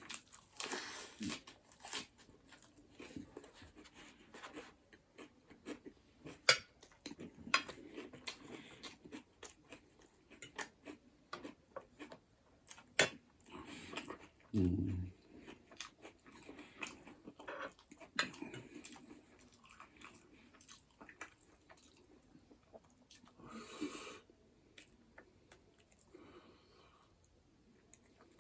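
Close-miked eating sounds: a person chewing noodles and buffalo bone marrow, with wet smacks and clicks. A single brief low thump comes about halfway, and a short louder slurp-like rush comes near the end.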